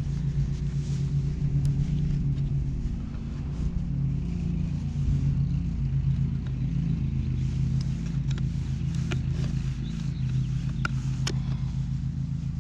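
An engine running steadily at a low, even hum, with a few light clicks in the second half.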